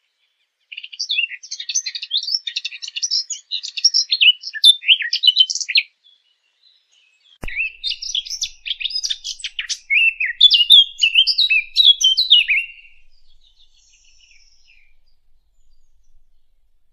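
Small songbird song, the bird known in Arabic as the 'fig bird' (عصفور التين), used as a hunting lure call. It is a fast, varied warble of high chirps and twitters in two long phrases, with a short break and a faint click between them, and it fades out near the end.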